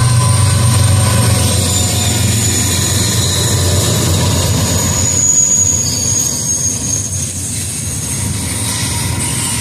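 A BNSF freight train's GE diesel locomotives pass close by, their low engine drone fading after the first few seconds. Double-stack intermodal well cars then roll by with a steady wheel rumble, and a thin high squeal slides slightly down through the middle.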